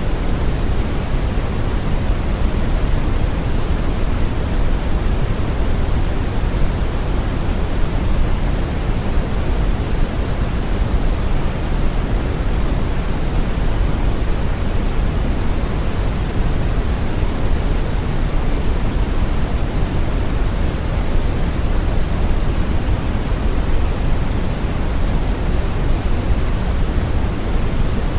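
Continuous brown noise: a steady, deep rushing hiss, strongest in the low end and falling away in the highs, with no changes or events.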